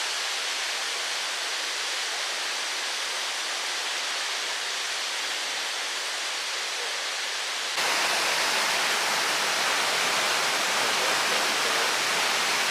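Waterfall's rushing water, a steady hiss that jumps suddenly louder and fuller about eight seconds in.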